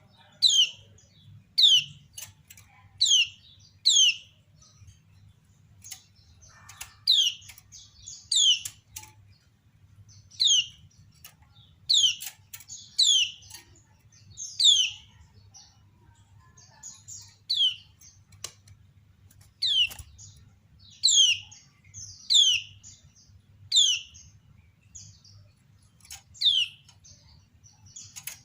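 Kecial kuning white-eye, the female of the pair, giving sharp, repeated 'ciak' calls. Each call is a quick downward-sweeping chirp, coming about once a second with some in close pairs: the female's call used to draw other kecial into answering.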